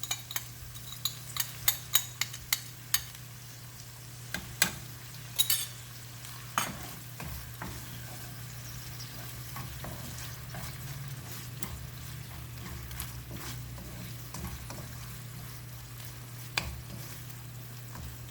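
Red curry paste and sauce sizzling in a pan while a spatula stirs, scraping and knocking against the pan many times during the first seven seconds. After that, a steady sizzle continues, with a low hum underneath.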